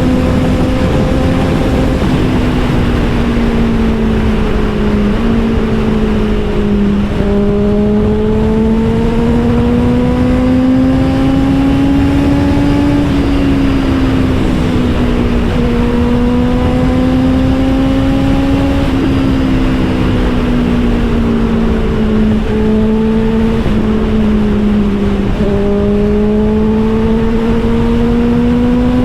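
Honda CBR650R inline-four engine running through an Austin Racing GP1R aftermarket exhaust on a steady, moderate-throttle ride. Its note climbs slowly and drops back again several times, about every few seconds, as the throttle and gears change.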